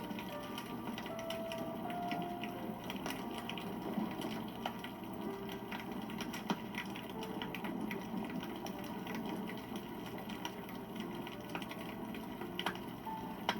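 Wood campfire burning, with dense, steady crackling over a low rush of flame and a few sharper pops, one about halfway through and a couple near the end.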